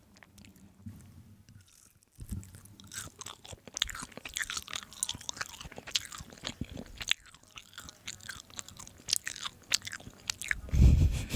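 A person chewing soft tofu close to the microphone, with many small wet clicks and smacks. One loud low thump comes near the end.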